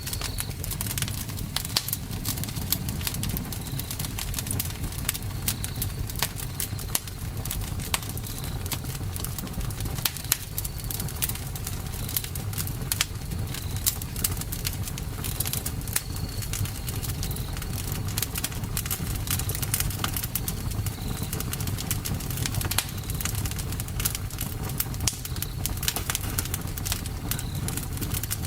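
Wood fire burning, with irregular sharp crackles and pops over the low rumble of the flames.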